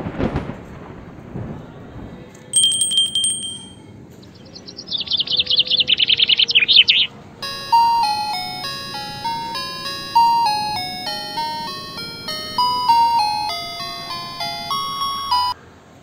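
A brief thump, then bird chirps: a short trilled call and a fast, falling trill, loudest a few seconds in. About halfway through, a simple melody of short ringing notes takes over and plays until just before the end.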